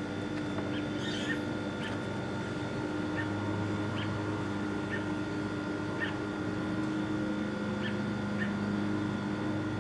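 A bird chirping: short high chirps repeating about once a second over a steady hum, with one higher squeak about a second in.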